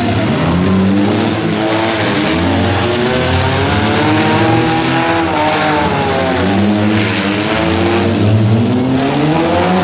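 Several stripped demolition-derby cars racing on a dirt track, their engines revving together, each pitch rising and falling as the drivers accelerate and back off through the turns.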